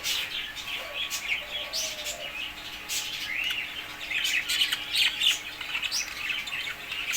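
Cockatiels chirping continuously, with many short, rapid, overlapping calls.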